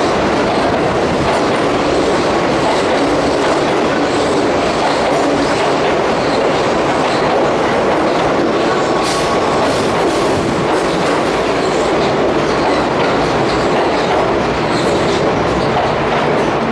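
A Keihan Main Line electric train running along the platform of an underground station, giving a steady loud rumble of wheels and motors with light clacks over the rail joints.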